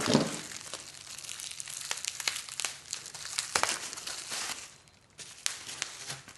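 Packing material rustling and crinkling as parts are unwrapped, with irregular sharp crackles and a brief lull near the end.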